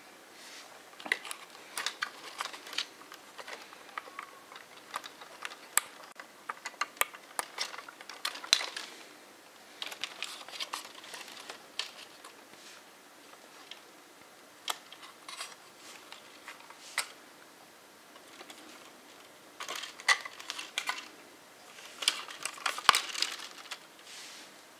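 Irregular handling noise: sharp clicks and short rustles, in clusters with quieter gaps in between.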